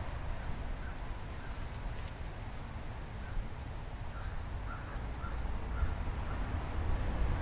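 Steady low outdoor rumble, with a distant bird giving a series of short calls, about two a second, starting about four seconds in.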